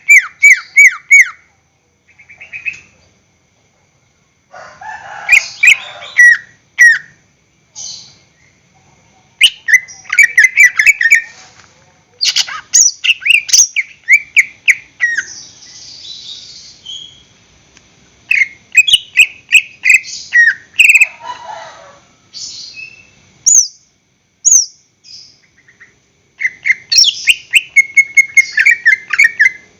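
Cucak ijo (green leafbird) singing loud phrases of rapid repeated chirps and whistled notes, each burst lasting one to three seconds with short pauses between.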